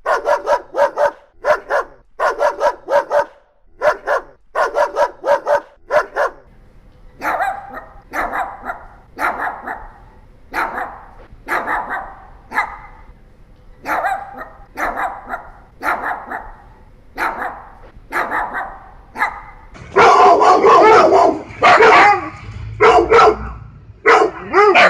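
Dogs barking. First comes a quick run of sharp barks, about two a second. Then slower single barks follow, about one a second. About twenty seconds in, louder and harsher barking sets in, packed close together.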